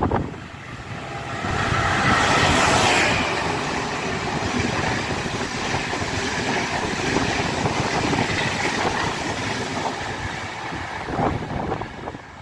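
Diesel locomotive-hauled Intercity train passing through a station at speed. The locomotive's rush is loudest about two seconds in, followed by the steady rumble and rush of the coaches going by.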